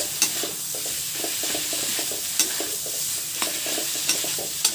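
Boiled potatoes frying in onion-tomato masala in a kadhai, sizzling steadily while a spatula stirs and scrapes through them. The spatula knocks against the pan with several sharp clicks.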